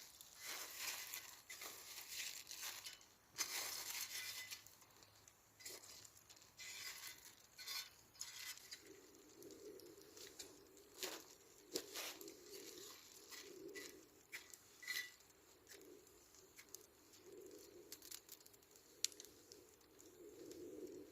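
Crinkling and rustling handling sounds with occasional light clicks and clinks, busiest in the first few seconds. From about nine seconds a low cooing call repeats in the background.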